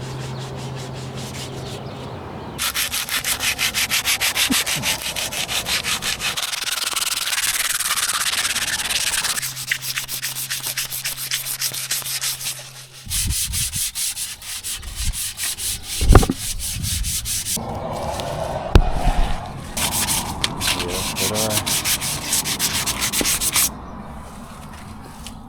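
Rhythmic rasping strokes in several runs, a few strokes a second, with a couple of sharp knocks partway through. A steady low hum sits under the start and returns briefly in the middle.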